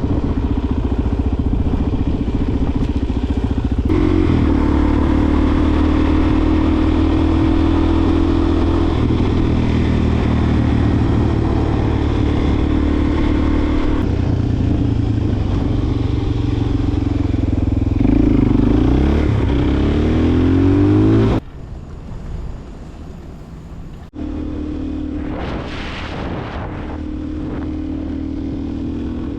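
Suzuki DR-Z400SM's single-cylinder four-stroke engine running on the move. Its note holds steady for stretches and steps in pitch several times, then climbs in a rev about two-thirds of the way through. It cuts suddenly to a quieter, lower running and comes back up a little near the end.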